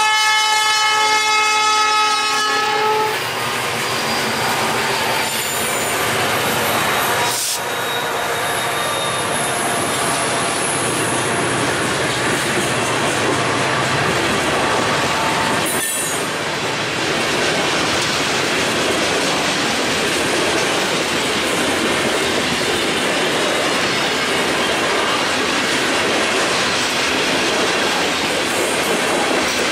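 Four EMD SD40-2 diesel locomotives heading a freight train: the lead unit's horn sounds and cuts off about three seconds in as the engines run past under power, then a long string of covered hopper and tank cars rolls by with steady wheel-on-rail noise.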